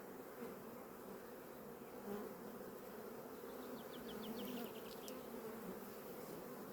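Honey bees buzzing from an open hive: a steady, faint, wavering hum of the colony. A brief run of faint high chirps comes about four seconds in.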